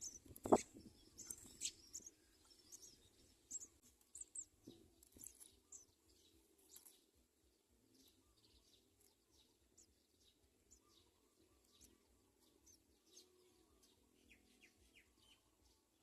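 House sparrows chirping: many short, high chirps, busiest in the first half and sparser later. A single sharp click about half a second in is the loudest sound.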